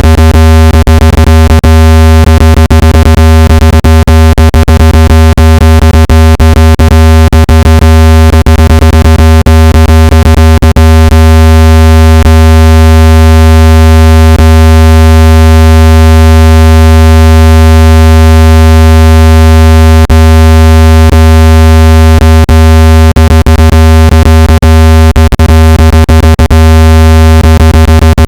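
Synthesized low-pitched tone of the kind played to push water out of a phone speaker, very loud and unchanging, with a stack of buzzy overtones. It crackles with frequent clicks, thinning out in the middle stretch.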